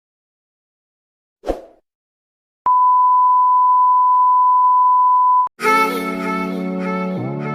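Edited sound effects: a brief hit about a second and a half in, then a steady single-pitch beep held for about three seconds that cuts off suddenly. Music starts right after it, near the end.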